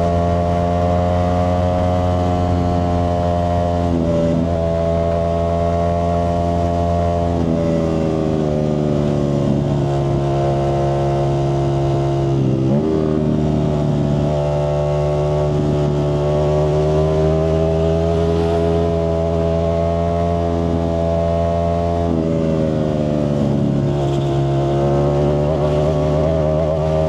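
Ducati Streetfighter V4S's V4 engine through a Zard exhaust, running with a steady drone. Its pitch sags and recovers gently several times, with a sudden step up about thirteen seconds in.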